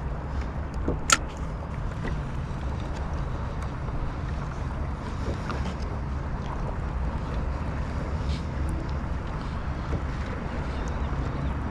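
Sea water lapping and sloshing against a kayak's hull under a steady low rumble, with one sharp click about a second in.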